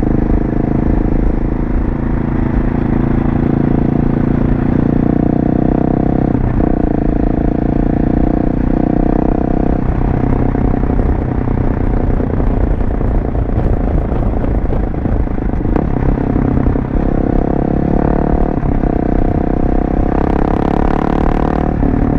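Husqvarna 701 Supermoto's single-cylinder engine through an aftermarket LeoVince exhaust, running under way on a ride. The engine note breaks or changes briefly every few seconds.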